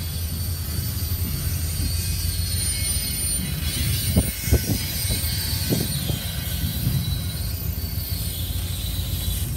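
CSX freight train of double-stack container cars rolling past: a steady low rumble of wheels on rail, with a handful of sharp clanks about four to six seconds in.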